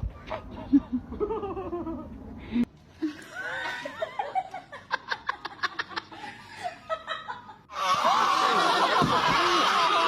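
People laughing across a few short clips that cut into one another, with a quick run of short laughing pulses about halfway through; the last two seconds turn louder and noisier.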